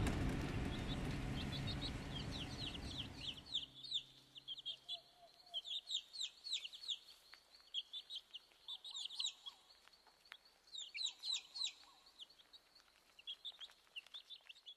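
Traditional Sephardic music fading out over the first few seconds, then small birds chirping in quick runs of short, high, falling notes.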